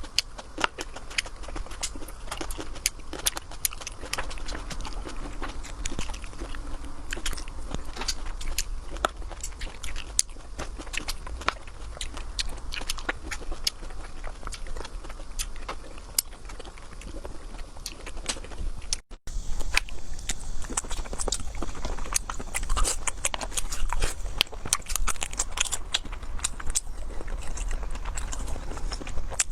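Close-miked eating sounds: continuous biting and chewing with many small wet clicks and smacks. A brief cut about two-thirds of the way through, after which the chewing is slightly louder and crisper.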